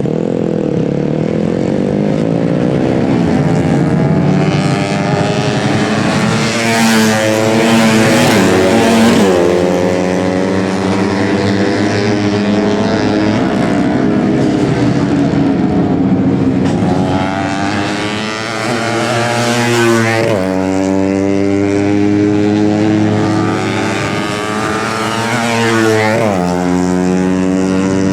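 Several 130 cc four-stroke single-cylinder underbone race motorcycles running at full throttle. Their engine notes climb and then drop sharply three times.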